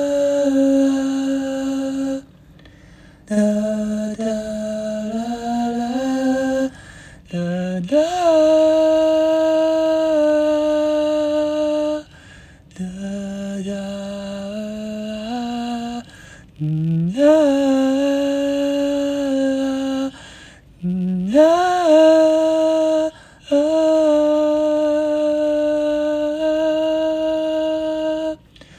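A lone singer humming a slow wordless melody with no accompaniment, in long held notes separated by short breaths. A few phrases start with a note sliding up into pitch.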